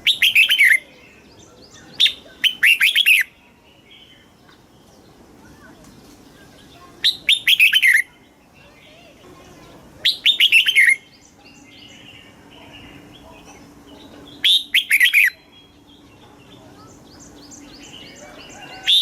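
Red-whiskered bulbul singing: five short, loud song phrases, each under a second, of quick falling whistled notes, spaced a few seconds apart. Softer chirps come between the phrases.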